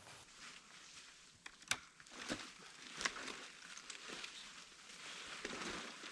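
Faint footsteps crunching over the forest floor, with a few sharp snaps about two and three seconds in.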